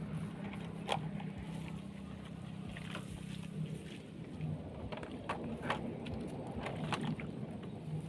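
A small motor running with a steady low hum that fades out about four seconds in, with sharp clicks and knocks scattered throughout.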